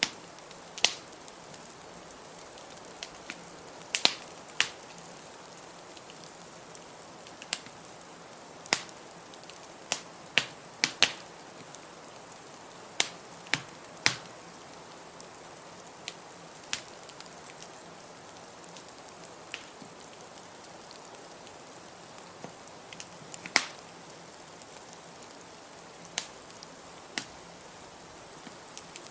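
Wood fire crackling in a fireplace: irregular sharp pops and snaps, some louder than others, over a steady soft hiss.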